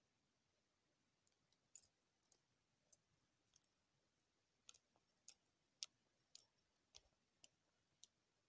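Near silence, broken by faint, sharp clicks at irregular intervals from about a second in.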